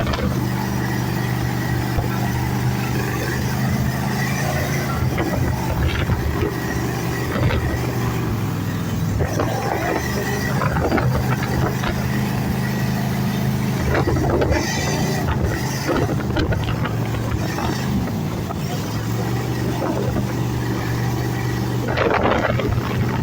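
454 V8 jet boat engine running under way, with wind and water noise. Its steady note eases off about eight seconds in and again around thirteen seconds, then picks back up near the end.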